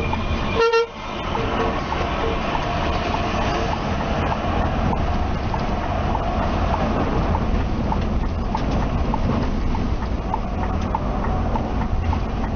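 Scania K360ib coach on the move, heard from inside: steady engine and road rumble, with a short horn toot about half a second in and light regular ticking, about one and a half a second.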